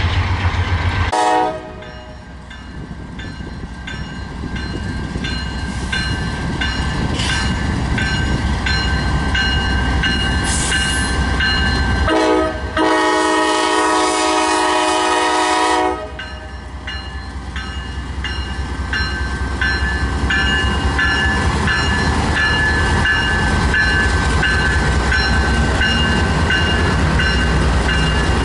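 Locomotive air horn sounding a short blast about a second in, then a long blast of about four seconds near the middle. Throughout, a train rumbles past, its wheels clicking steadily over the rail joints.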